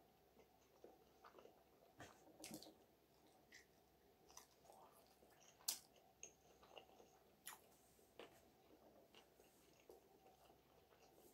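Faint close-up chewing of sausage: soft wet mouth noises and small clicks, with one sharp click about halfway through.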